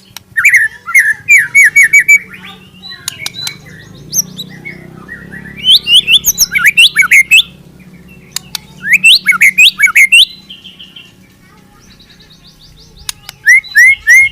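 Murai, a Copsychus songbird, singing loud, rapid phrases of quick sweeping whistled notes in separate bursts with short pauses between them, including runs of the same note repeated several times in quick succession.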